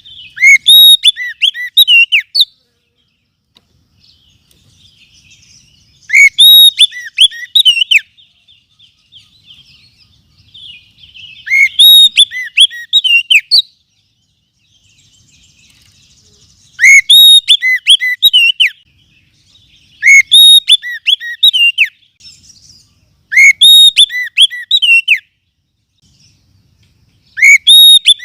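Oriental magpie-robin song from a lure-call recording: loud phrases of quick, rising and falling whistled notes, each a second or two long and repeated every few seconds, with faint twittering between phrases. The phrases are loud enough to distort.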